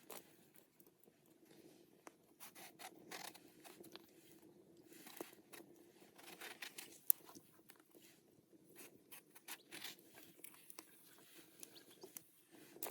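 Quiet food-preparation handling sounds: scattered light taps, clicks and short scrapes and rustles, with one sharper tick about seven seconds in.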